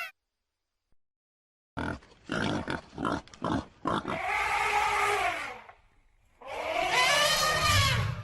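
An animal making several short grunts in quick succession, then two longer drawn-out calls that rise and fall in pitch.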